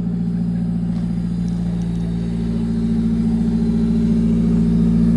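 A car engine idling steadily, growing gradually louder over the second half.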